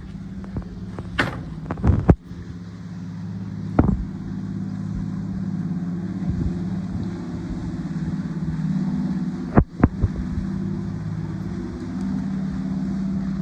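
Engine running steadily with a low, even hum that grows louder over the first few seconds, with a few sharp knocks.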